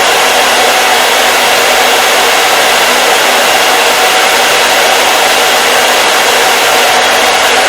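Hair dryer running steadily: an even, loud rush of air over a faint steady motor hum.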